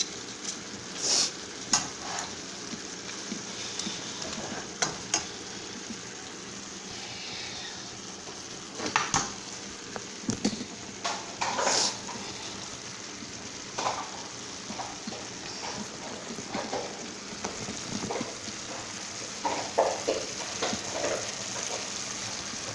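Chicken thighs with chopped peppers and onions sizzling steadily in a skillet as they simmer, with a utensil now and then clicking and knocking against the pan.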